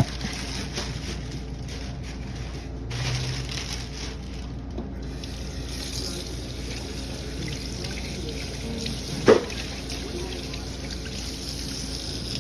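Tap water running into a kitchen sink as raw chicken is rinsed under it, with one short, loud knock about nine seconds in.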